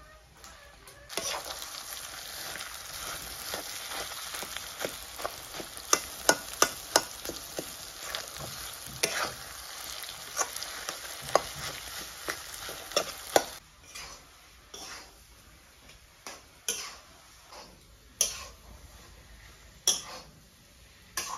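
Mashed potato and chicken frying in a kadai, sizzling steadily while a metal spatula stirs and knocks against the pan. The sizzle drops away about thirteen seconds in, leaving occasional clinks of the spatula.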